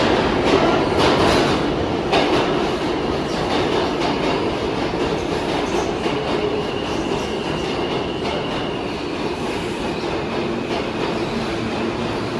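New York City subway train running through an underground station, its wheels clacking over the rail joints over a steady rumble. A thin high squeal joins about halfway.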